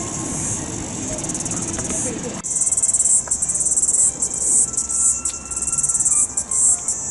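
A loud, high-pitched insect chorus chirring steadily. About two and a half seconds in there is a sudden cut: the low background murmur drops away and the chirring becomes louder, with brief breaks.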